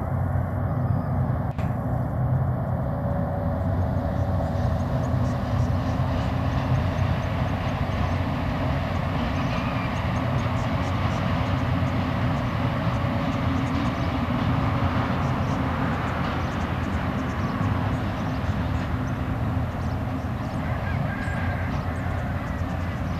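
Two TasRail TR-class diesel-electric locomotives hauling a loaded log train, their engines making a steady low drone as the log wagons roll past.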